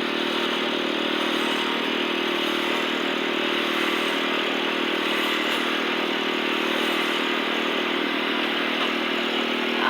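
Concrete mixer running steadily, its engine droning evenly while the drum turns, with a light clatter from the mix inside.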